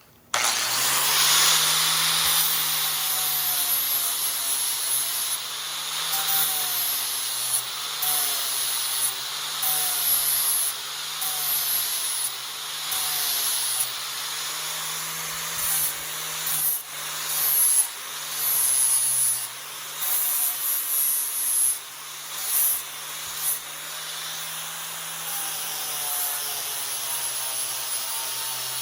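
Angle grinder with a flap disc sanding the edges of steel bar: a continuous abrasive hiss over the motor's whine. The motor pitch dips and recovers about once every second or two as the disc is pressed onto the metal and eased off in strokes.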